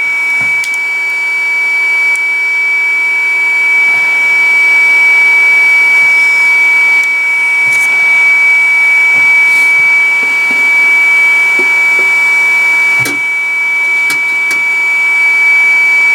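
A small electric blower motor, part of the soldering rework gear, runs with a steady high-pitched whine. A few faint clicks can be heard in it.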